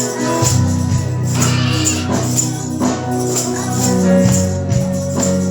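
Live church praise music: keyboard and bass chords with a tambourine shaken on a steady beat, and congregational singing.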